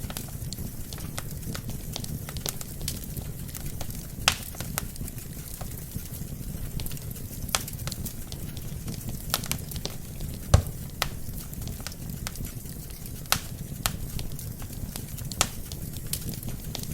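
Wood fire burning in a fireplace: a steady low rumble of flames with scattered sharp crackles and pops from the logs. The loudest pops come about four seconds in and about ten and a half seconds in.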